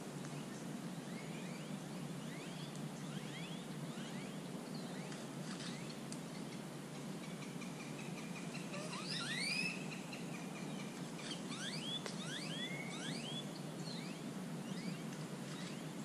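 Several small birds chirping in short rising and falling calls, busiest in the second half, with one held whistle about halfway through, over a steady low background noise.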